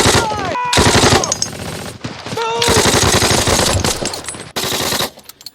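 Film battle-scene mix of dense automatic gunfire: rapid machine-gun bursts overlapping with single shots, and yelling voices in among them. The firing drops away suddenly about five seconds in.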